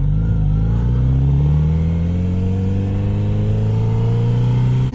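Kawasaki Z900RS Cafe's inline-four engine pulling steadily under throttle, its note rising evenly as the motorcycle accelerates through a gear. The note breaks off briefly at the very end.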